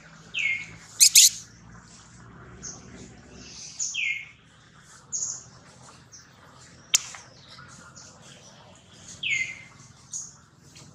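Birds chirping, with a short high call that falls in pitch repeating about every four seconds. A sharp double click about a second in is the loudest sound, with another click near the middle.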